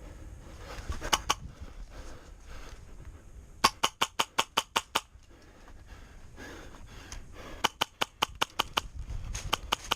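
Airsoft gun firing strings of sharp snapping shots, about seven a second, in several bursts: a short one about a second in, longer ones near four and eight seconds, and another just before the end.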